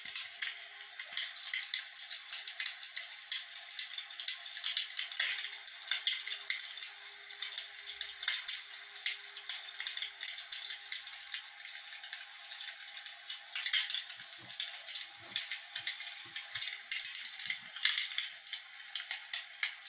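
Fireplace fire crackling: a dense, steady stream of small pops and snaps, thin and high with no low rumble.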